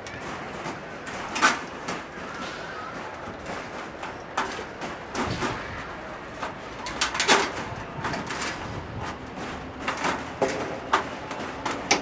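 Irregular knocks and taps of sheet-metal work while a chimney is clad in metal sheeting, with a quick run of sharper strikes about seven seconds in.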